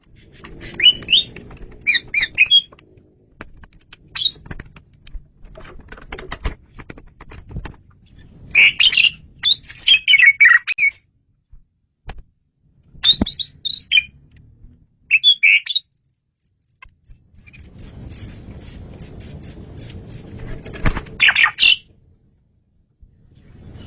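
Male Asian pied starling (jalak suren) singing: loud bursts of quick, bending whistled and harsh phrases separated by short pauses, with a run of rapid thin high notes in the middle.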